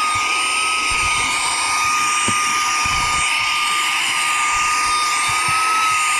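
Saker 3-in-1 handheld cordless vacuum's brushless motor running, a steady high whine over rushing air, with a few brief low thumps in the first half.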